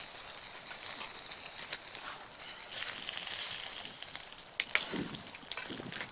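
Steak frying in a pan over a campfire: a steady sizzling hiss with scattered sharp crackles and pops.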